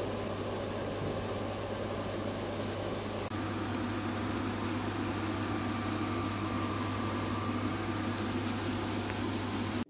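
Potato pancakes sizzling steadily in hot oil in a frying pan, over a steady low hum. The sound cuts off abruptly near the end.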